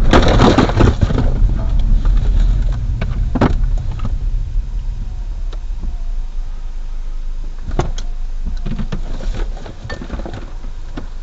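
Car cabin and road rumble just after the car has hit a deer, opening with about a second of loud crunching and clattering from the collision, then a few sharp knocks. The rumble slowly fades and drops further near the end as the car slows.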